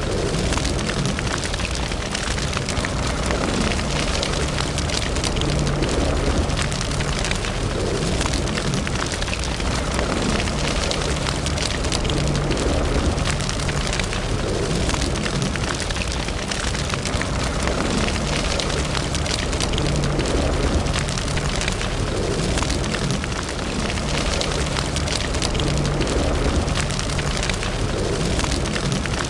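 Wood fire burning in a fireplace: a steady low rumble with dense, continuous crackling.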